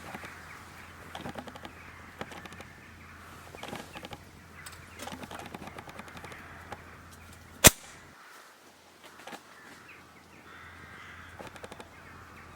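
Campfire crackling with scattered small clicks and one loud, sharp pop about three-quarters of the way through. Crows caw several times in the woods behind it.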